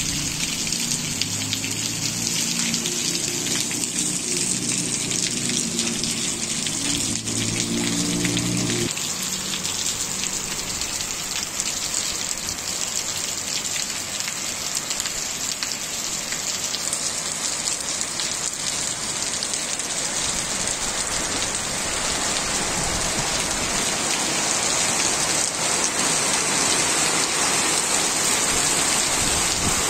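Heavy rain pelting a wet paved street and its puddles: a steady hiss that grows louder in the last several seconds. For the first nine seconds a motorcycle's engine hums low underneath, then cuts off abruptly.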